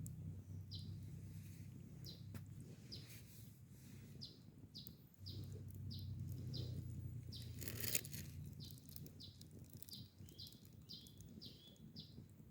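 A bird calling with a long run of short, falling chirps, about two a second, over a low steady hum; a single sharp crack about eight seconds in.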